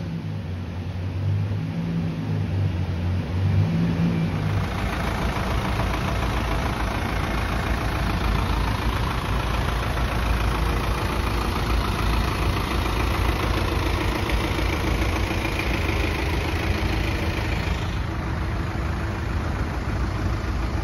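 Car engine running with steady low tones while the car's rear wheel turns on a chassis dyno. After about four seconds this gives way to a steady vehicle engine and road noise, which runs through to the end.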